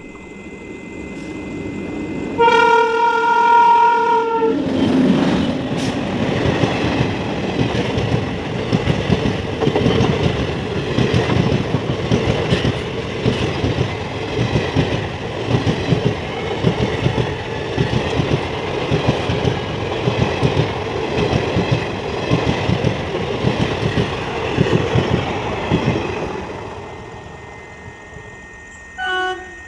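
Indian Railways express train locomotive sounding one steady horn note for about two seconds, then the train running through the station at speed, its wheels clattering rhythmically over the rail joints as the coaches pass, fading near the end. A brief horn toot from a second train sounds just before the end.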